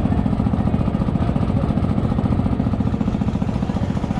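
An engine running steadily at an even speed, with a fast regular beat and a deep hum.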